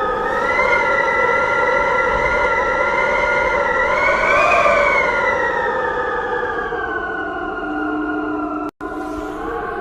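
A siren wailing: its pitch rises slowly to a peak about four and a half seconds in, then falls slowly. It cuts out for an instant near the end.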